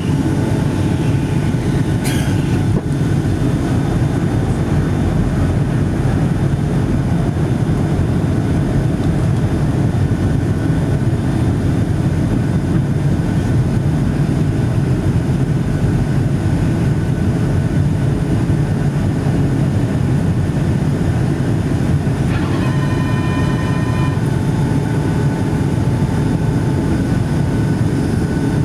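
Steady, loud cabin noise of a Boeing 757-200 airliner in flight: engine and airflow noise heavy in the low range. A short ringing tone sounds about 22 seconds in.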